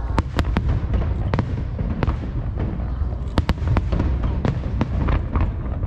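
Aerial firework shells bursting: a dozen or so sharp bangs at irregular intervals over a steady low rumble.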